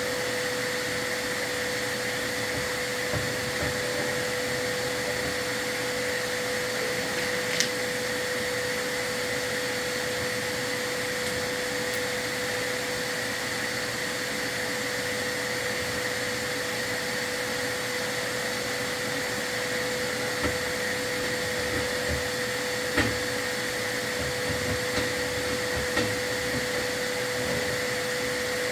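Vacuum running steadily with a constant whine. A few short knocks and taps sound over it, the sharpest near the start and about two-thirds of the way through.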